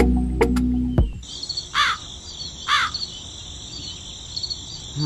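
Background music cuts off about a second in, leaving outdoor ambience: a steady high insect buzz and a bird cawing twice, about a second apart.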